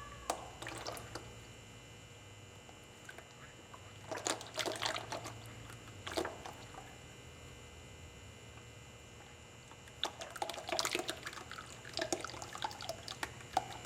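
Dirty engine oil draining out of a Farmall 140 tractor's oil pan, pouring and trickling. A few short spells of light clicks and clatter come about four seconds in, around six seconds, and again near the end.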